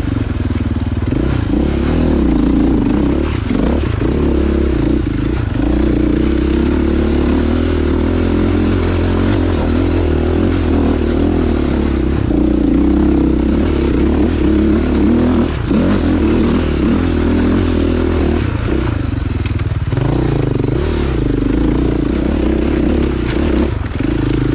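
Dirt bike engine running under way on a rocky trail, holding a fairly steady pitch and briefly dropping off the throttle a few times.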